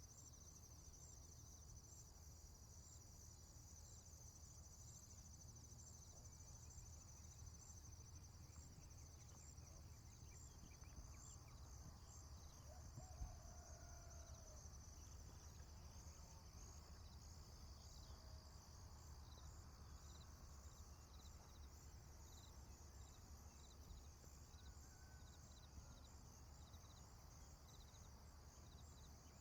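Faint ambient insect chirring, a steady high pulsing chorus typical of crickets, over a low rumble, with a couple of faint short bird calls about halfway through and again later.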